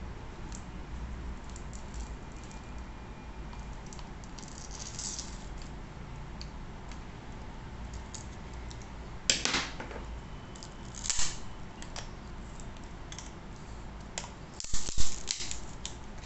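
Small plastic and metal parts of a Nokta Makro Simplex+ metal detector handled during disassembly: scattered light clicks, with louder rattling clatters about nine and eleven seconds in and the loudest near the end, over a steady low hum.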